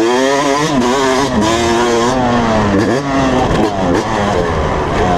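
Motocross bike engine revving hard under throttle. The pitch climbs steeply at the start, wavers, and briefly drops and rises again about three seconds in as the throttle is rolled off and back on.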